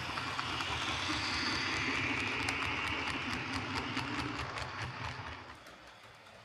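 OO gauge Lima Class 117 DMU model running on track, driven by its newly fitted CD motor: a steady motor hum and wheel noise with a quick run of clicks from the wheels over rail joints, fading away about five and a half seconds in.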